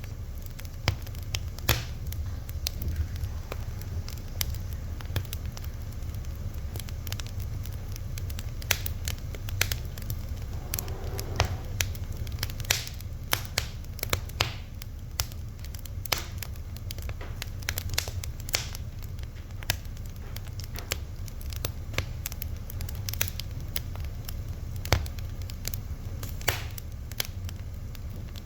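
Fire crackling, with frequent irregular sharp pops over a steady low rumble.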